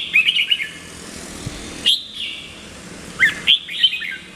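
Red-whiskered bulbul singing in short, quick, warbled phrases: one at the start, a brief note about two seconds in, and another phrase near the end.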